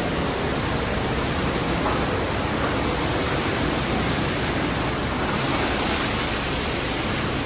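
Car wash tunnel equipment running, a loud steady rushing hiss of water jets and machinery with no breaks.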